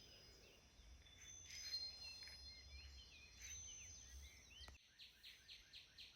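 Faint forest ambience: small birds chirping here and there over a soft low rumble. The rumble cuts off with a click about three-quarters of the way in, and near the end a bird gives a quick run of short chirps.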